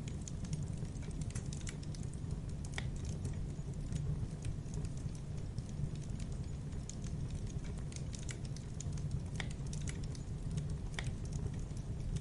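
Wood fire crackling: scattered sharp pops and snaps, several a second, over a steady low rumble.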